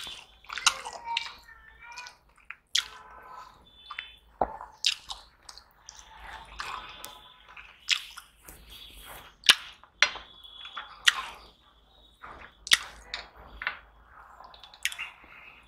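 Close-miked eating sounds of turmeric rice eaten by hand: wet, squishy chewing with sharp lip-smacking clicks at irregular intervals.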